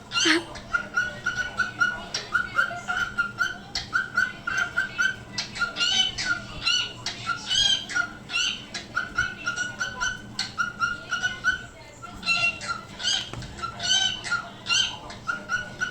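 Pet parrot calling, a long run of short repeated chirps at one steady pitch, about three or four a second.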